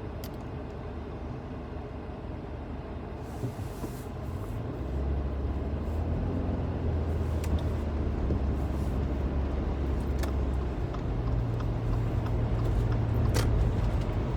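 Car interior road noise while driving on a wet, slushy road: low engine hum and tyre rumble that grow louder about five seconds in as the car picks up speed, with the engine note stepping up in pitch near eleven seconds.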